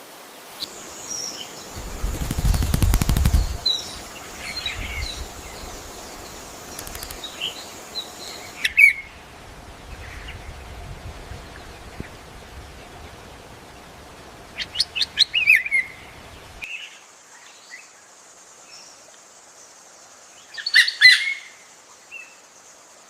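Birds chirping in short, scattered calls, with quick runs of chirps around the middle and again near the end. About two seconds in there is a loud, rapid fluttering burst, like wing flaps.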